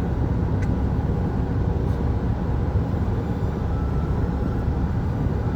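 Steady low rumble of motor-vehicle noise, even throughout, with a couple of faint ticks.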